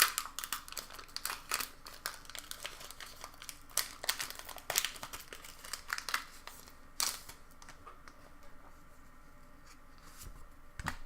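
Foil Pokémon booster pack wrapper crinkling and tearing as it is handled and opened, a rapid run of sharp crackles and clicks that thins out after about seven seconds, with a last sharp click near the end.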